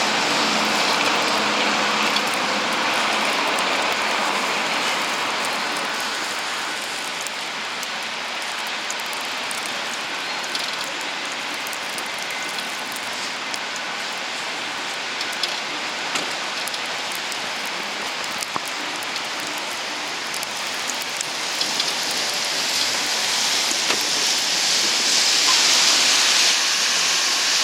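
Steady rushing hiss from a bicycle ride on wet pavement in falling snow, likely wind on the microphone mixed with wet tyre noise, with a few faint clicks. The hiss grows louder and sharper near the end.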